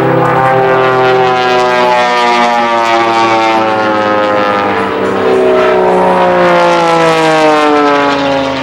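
Propeller airplane engine droning loudly in flight, its pitch slowly falling as it passes.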